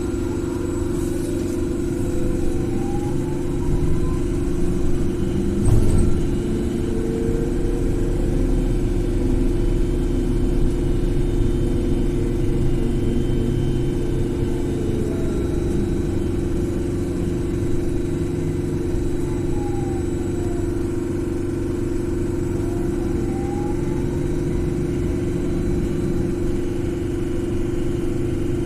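Interior of a BKM 42003A trolleybus in motion: the electric traction drive whines, rising in pitch as it accelerates, falling as it slows about two-thirds through, then rising again, over a steady hum and road rumble. A single knock about six seconds in is the loudest moment.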